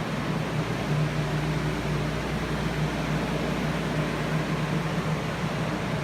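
Industrial air movers and dehumidifiers running for structural drying: a steady blowing noise with an even low hum.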